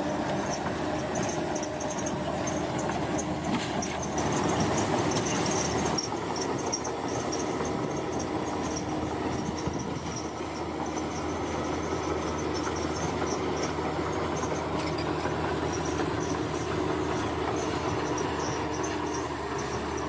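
Bulldozer's diesel engine running steadily as it works, swelling louder for a couple of seconds about four seconds in, with a high, rapidly repeating chirp-like squeak over it.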